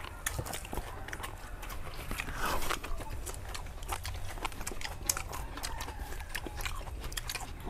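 A man chewing food close to the microphone: an irregular run of short mouth clicks and smacks.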